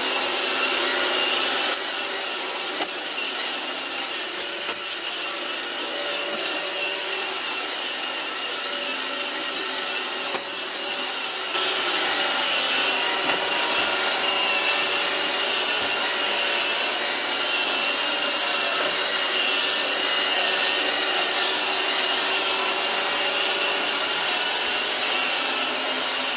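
Roomba 564 Pet robot vacuum running steadily, its motor and brushes giving a steady whine, as it works over a door threshold strip. The sound drops a little about two seconds in and comes back up to full about eleven seconds in.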